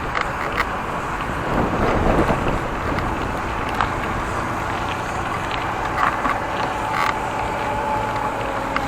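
Wind buffeting the microphone of a camera on a moving bicycle, over steady road and traffic noise, with a few light clicks. About eight seconds in, a steady motor-vehicle engine hum comes in.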